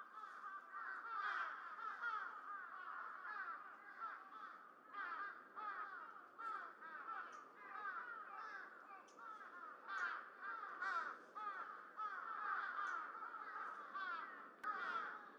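A flock of birds calling at once: a continuous chatter of many short, overlapping calls that slide down in pitch.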